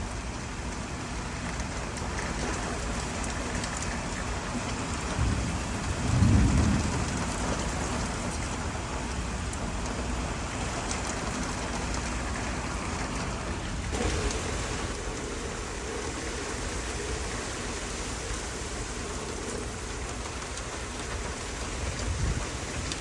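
Steady rain falling, with a low rumble of thunder about six seconds in.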